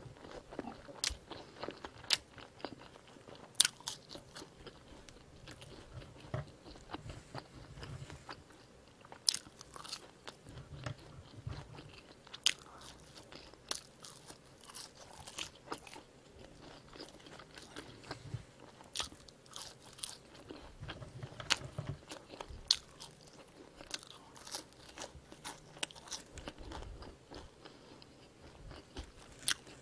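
A person chewing bites of a fried squid burger and french fries close to the microphone, with irregular sharp crunchy clicks over soft chewing.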